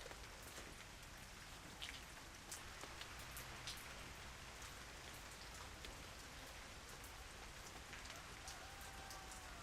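Steady light rain falling, with many individual drops ticking sharply on a nearby surface.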